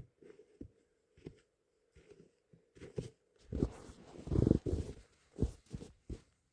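Muffled, irregular thuds and scrapes of a shovel digging into hard, icy snow, with a longer, louder stretch of scraping about halfway through.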